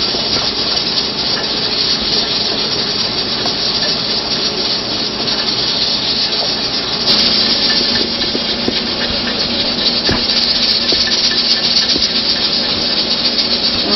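Steady hiss of steam from cookware on the stove, a little louder from about halfway, with a few faint clicks.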